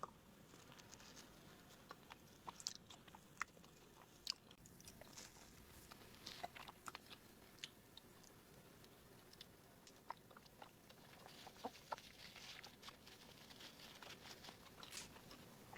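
Faint close-up chewing of a soft, sticky glutinous-rice cake (bánh su sê), with small irregular wet mouth clicks.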